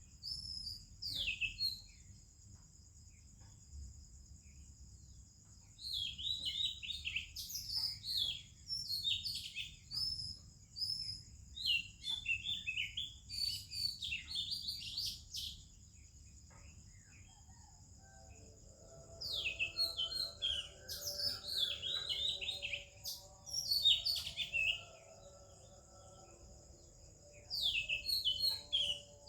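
Oriental magpie-robin singing in bouts of quick, varied whistled and warbled phrases, with short pauses between bouts. A steady high-pitched drone runs underneath the song.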